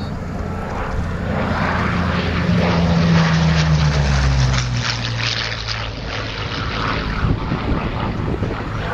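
Hawker Sea Hurricane's Rolls-Royce Merlin III V12 engine and propeller as the fighter flies past. The engine note builds to its loudest about three seconds in, then drops in pitch as it moves away.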